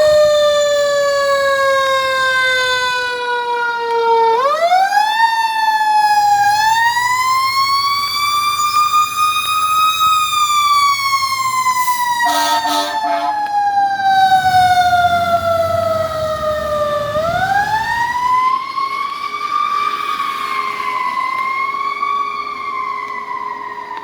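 Fire engine siren wailing in long, uneven rises and falls, its pitch sinking slowly for several seconds before winding back up. A few short horn blasts come about halfway through, over the truck's engine rumble as it passes.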